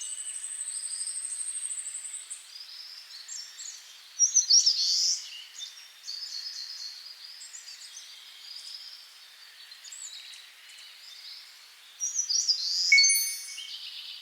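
Several birds singing and calling, with a thin, fast high trill over the first two seconds. Louder bursts of song come about four seconds in and again near the end.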